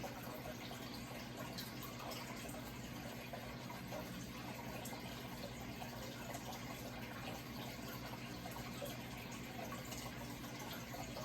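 Steady running water, trickling and splashing continuously, over a low steady hum.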